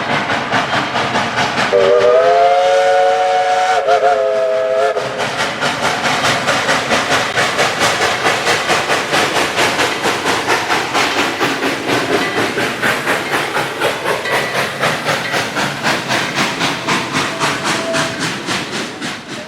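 HO scale model steam locomotive sound decoders. A three-note chord whistle blows about two seconds in and holds for about three seconds over steady, rapid chuffing at about four beats a second. The sound fades in at the start and fades out near the end.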